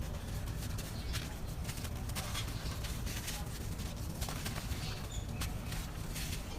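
Dry, grainy red dirt crumbling, giving an irregular run of small crunches and crackles over a steady low rumble.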